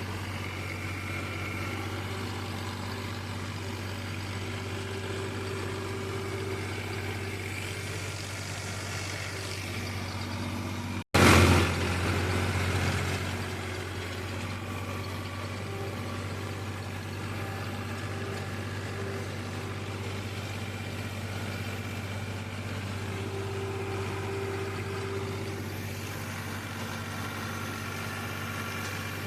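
Farmtrac XP 41 tractor's diesel engine running steadily with an even low hum, working an 8-foot rotavator. About eleven seconds in the sound drops out for an instant, then comes back louder and noisier for a couple of seconds before settling to the steady run again.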